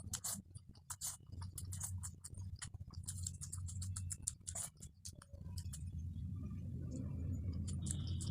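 Close-miked eating: irregular wet clicks and smacks of chewing, dense for the first five seconds and sparser after, over a steady low hum.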